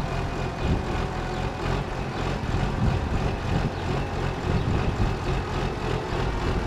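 Heavy diesel engine of a telehandler running steadily, a low even drone.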